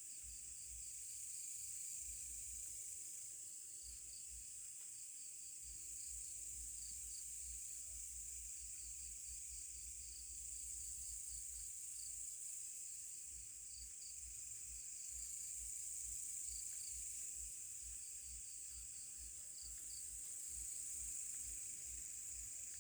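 Night insect chorus: a steady, high-pitched trill with small chirps repeating below it, over a faint low rumble.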